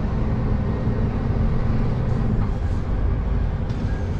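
Scania truck's diesel engine and road noise while driving: a steady low rumble. The engine's hum fades about halfway through while the rumble carries on.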